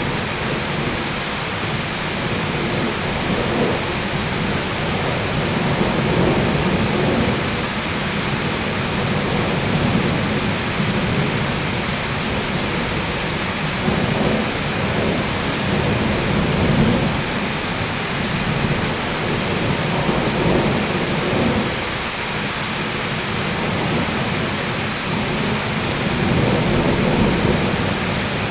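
Thunderstorm: steady heavy rain with thunder rumbling in repeated low swells every few seconds.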